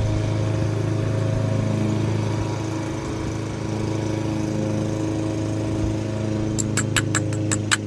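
A steady, even-pitched machine hum, with a quick run of about eight sharp clicks near the end as the carburetor's main jet is worked loose.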